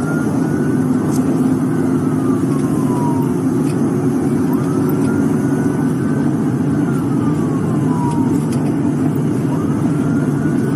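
Police car siren wailing in slow rise-and-fall sweeps, about two and a half cycles, over the steady engine and road noise of the patrol car driving at high speed in pursuit.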